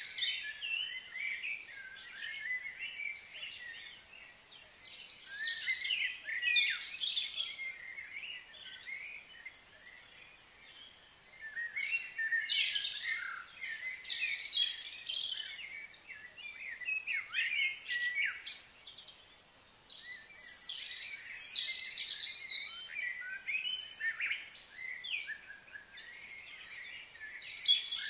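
Several birds chirping and singing in overlapping bouts of quick, high calls, with lulls between bouts.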